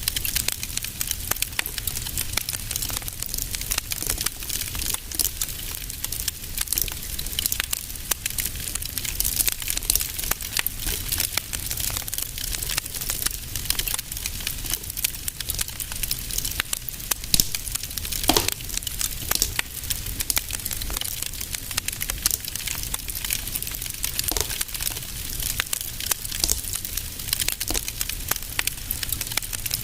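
Fire burning in a fireplace, crackling with a dense run of small pops over a soft hiss and a low rumble, with a few louder pops now and then.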